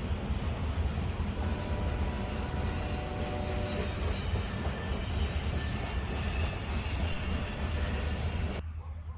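Freight train rolling past with a steady rumble of wheels on rail. Thin, high wheel squeals come in from about three seconds in. The sound drops off suddenly near the end.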